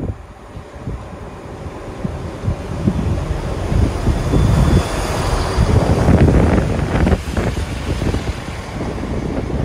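GWR Class 166 Turbo diesel multiple unit pulling into a platform, its underfloor diesel engines and wheels on the rails growing louder as it draws alongside, with wind buffeting the microphone. About seven seconds in it drops to a steadier, quieter rumble mixed with wind noise.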